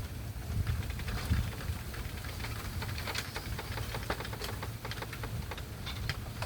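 Engine of a hand tractor plowing a rice paddy, running steadily, with scattered sharp clicks over it.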